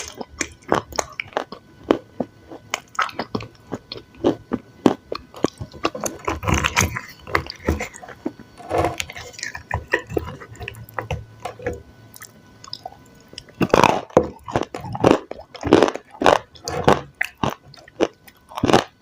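Dry clay crunching and crumbling in quick, irregular crackles, mixed with the wet squish of clay paste; the crunches bunch up and grow louder in the last few seconds.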